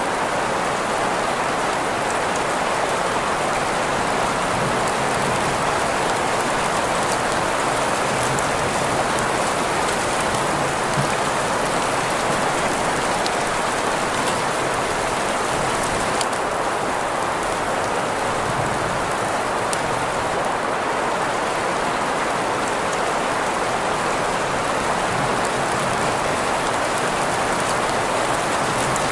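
Steady rain sound blended with green noise: an even, unbroken hiss strongest in the middle range, with faint scattered drop ticks in the highs.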